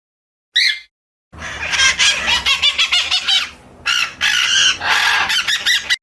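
Small birds calling: a single short chirp, then from about a second in a dense burst of rapid, high chattering notes that cuts off abruptly.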